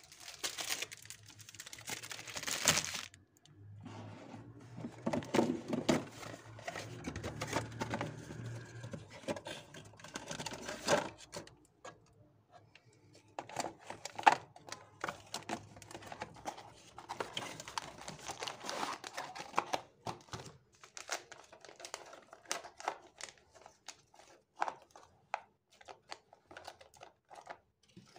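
Crinkling and rustling of packaging being handled, with many light clicks and knocks of items being moved. The crinkling is loudest in the first few seconds.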